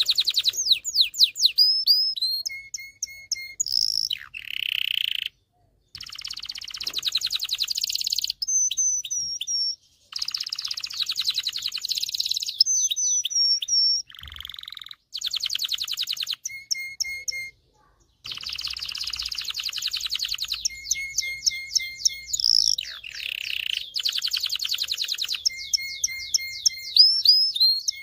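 Domestic canary singing: long phrases of fast rattling trills, sweeping whistled notes and short repeated chirps, with brief pauses between phrases.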